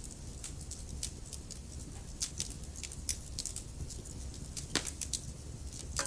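Wood fire in a fireplace crackling, with burning logs giving off irregular sharp pops and snaps over a steady low rumble of flame. A louder snap comes about three-quarters of the way through.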